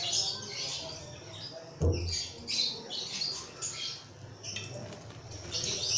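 Small birds chirping repeatedly in the background, with a single knock of a utensil about two seconds in.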